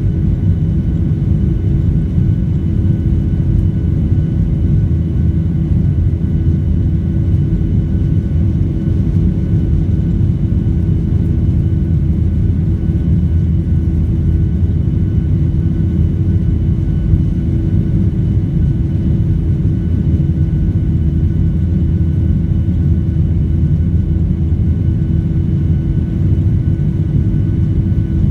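Steady cabin noise of a Boeing 737: a loud, even low rumble with a few faint steady tones above it.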